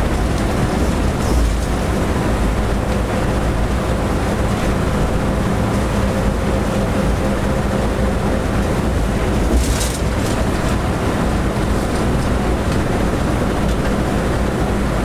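Steady running noise inside a moving locomotive's cab: engine and wheel-on-rail noise with a faint steady hum. There is a brief knock about a second and a half in and a sharper one near ten seconds in.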